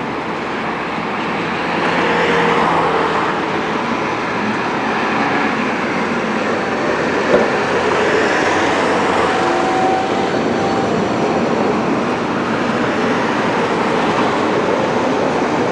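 Tram running on its rails, a steady running noise with faint passing whines and one sharp click about seven seconds in.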